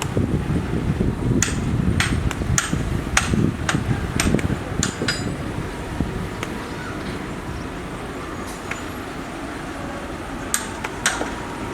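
Heavy earthmoving machine running with a low engine rumble, and a series of sharp metallic clanks, most of them in the first half and two more near the end.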